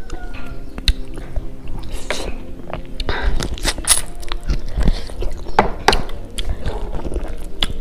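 Close-miked eating: biting pork off the bone and chewing with the mouth open, many short wet smacks and clicks.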